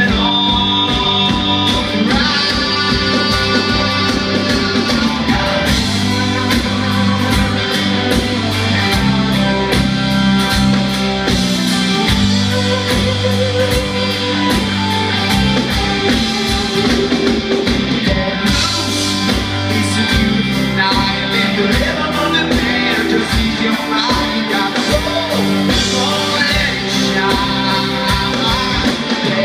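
Live rock band playing: drum kit, guitars and bass keeping up a steady beat, with some singing over the top.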